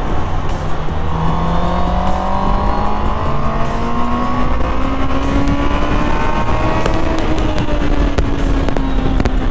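Honda CB650R's 650 cc inline-four engine accelerating under throttle, its pitch climbing steadily for several seconds, then levelling off and easing slightly near the end. Strong wind rush underneath.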